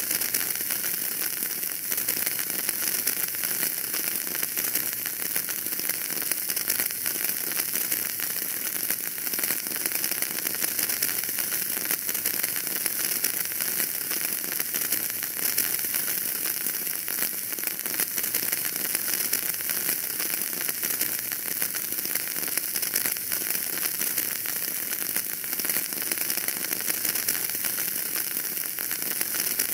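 Fire burning in a fireplace, crackling steadily: a dense, even patter of small pops and ticks over a continuous hiss.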